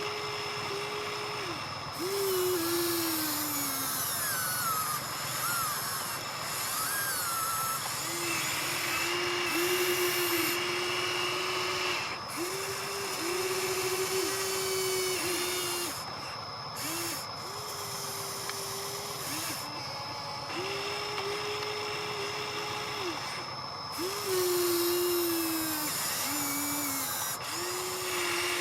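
Small electric motors of Huina RC construction models whining in repeated short runs that start and stop every second or two, the pitch sometimes sagging as a motor takes load, over a steady high-pitched whine.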